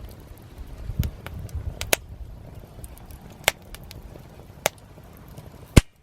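Wood fire burning, with sharp irregular pops and cracks, about five of them, the loudest near the end, over a low rumble in the first two seconds.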